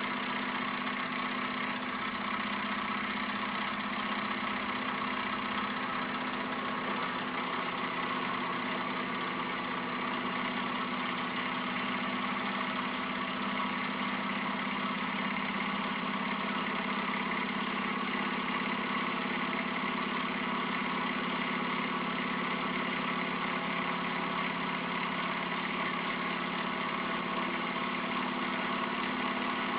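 Gamma-type Stirling engine running at a steady speed, its flywheel and linkage giving an even mechanical whir with a constant hum.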